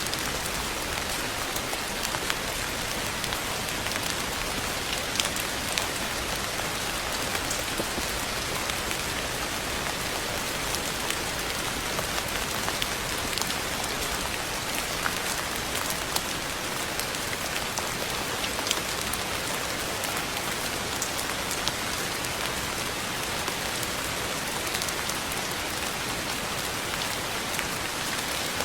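Steady rain falling, a dense even hiss with frequent sharp ticks of single drops striking a surface.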